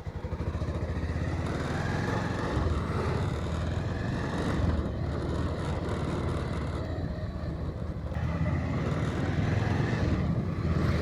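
Motorcycle engine running steadily on the move, with a constant rush of wind and road noise.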